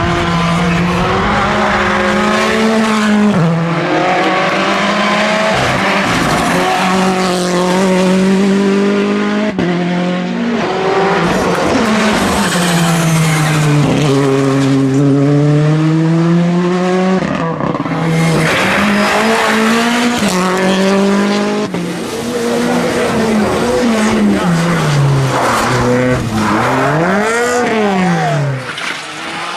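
Rally cars' engines revving hard at full throttle. The pitch climbs, then drops at gear changes and lift-offs, with a quick rise and fall near the end.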